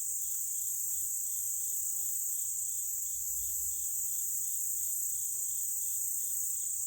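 Outdoor insect chorus: a steady high-pitched buzz, with a lower chirp pulsing about three times a second over it.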